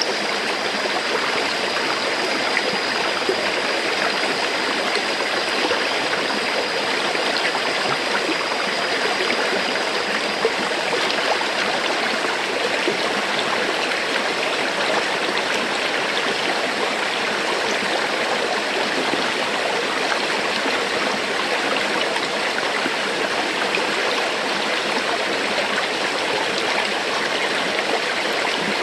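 River water flowing: a steady, even rush of running water with no pauses or changes.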